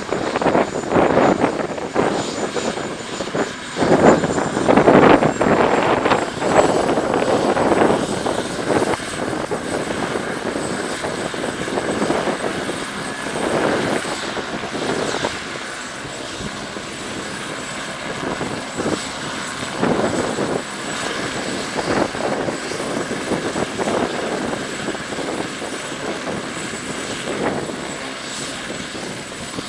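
Eurocopter AS350 B2 helicopter running close by: the high, steady whine of its single turbine over the rush of the rotor. Gusts of rushing noise are loudest in the first seven seconds, then the sound settles to a steadier level.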